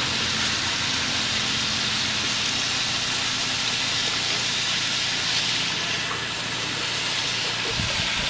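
Chicken pieces frying in a wok over a gas burner: a steady sizzling hiss.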